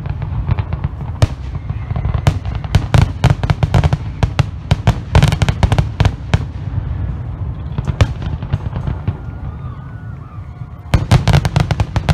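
Aerial fireworks bursting in rapid volleys of sharp bangs and crackles over a low rumble. The bangs thin out for a couple of seconds, then a dense volley comes near the end.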